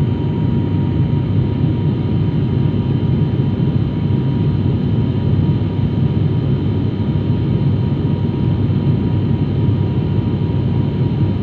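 Steady low roar of engine and airflow noise inside an airliner's cabin during the descent, with a faint steady whine over it.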